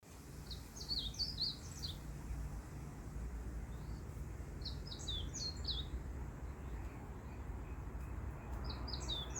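A small songbird singing: three bursts of quick, high, falling chirps, roughly every four seconds, over a steady low background rumble.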